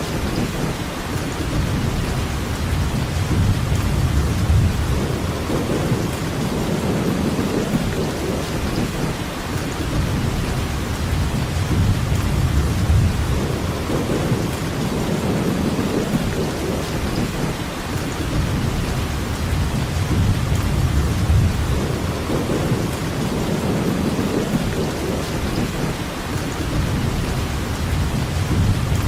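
Steady rainfall with a low rumble underneath that swells and fades every few seconds.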